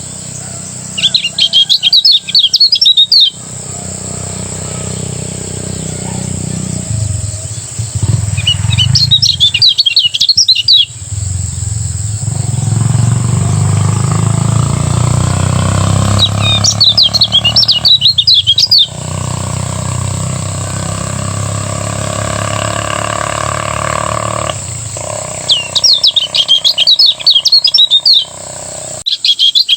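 Kecial kuning, a white-eye, singing in ngejos style: bursts of fast, jittery chirping, each about two to three seconds long, coming about four times. A steady low hum runs underneath.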